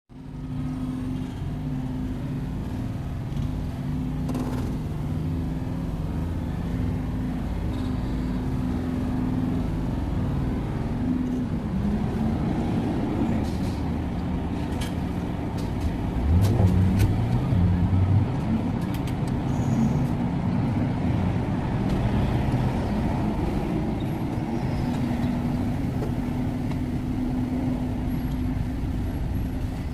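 A motor vehicle engine running steadily with a low hum. It grows louder about sixteen seconds in, with its pitch bending briefly.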